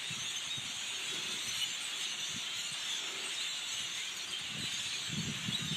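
Dense chorus of a large flock of birds chattering and chirping all at once, high-pitched and continuous, with a few soft low rustling thuds near the end.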